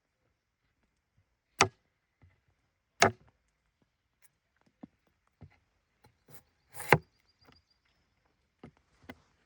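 Sharp wooden knocks struck at an irregular pace, as in bushcraft work with wood. Three loud strikes come about one and a half, three and seven seconds in, with fainter taps between them.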